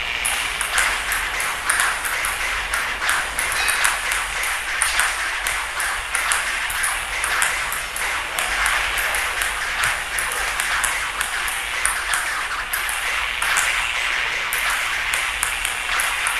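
Table tennis ball clicking rapidly and irregularly as it is batted back and forth with nunchaku and a paddle and bounces on the table in a fast rally. The clicks come over a steady hiss.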